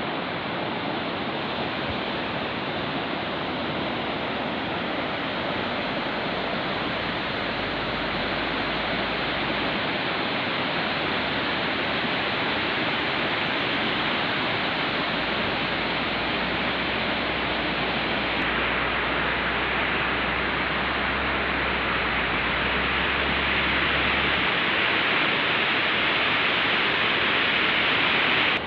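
Fast-flowing river water rushing as a steady noise that grows a little louder toward the end.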